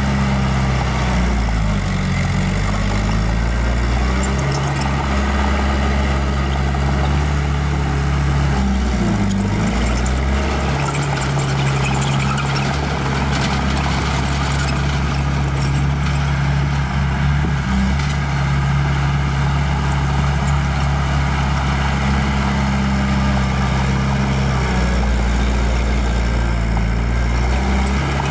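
Small bulldozer's diesel engine running steadily. Its note drops and comes back up twice, about two seconds in and again about nine seconds in.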